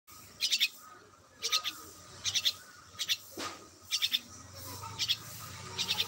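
A bird chirping: short bursts of three or four quick, high notes, repeated about once a second. A single quick falling sound comes a little past halfway.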